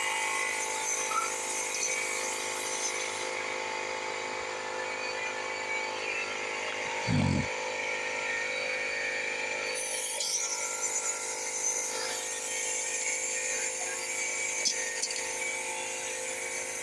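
Steady hum of a running motor with several steady tones, and one dull low thump about seven seconds in.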